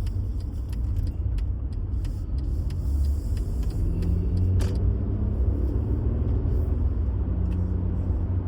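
Steady low rumble of a car driving at road speed on a highway, with a faint hum rising midway and a click about four and a half seconds in and another near the end.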